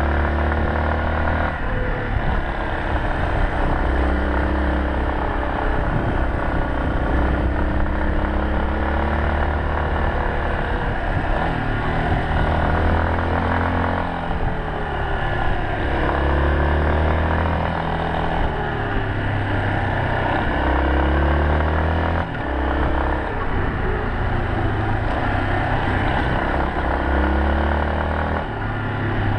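Yamaha Serow 250's air-cooled single-cylinder four-stroke engine running under way, its engine speed rising and falling again and again with throttle and gear changes.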